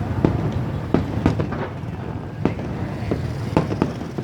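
Fireworks going off in a fast, irregular string of sharp bangs over a steady low rumble of traffic.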